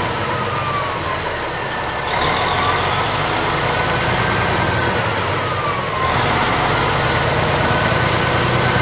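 Dubbed truck engine sound effect running steadily, growing a little louder twice, with a faint siren wailing slowly up and down in pitch behind it.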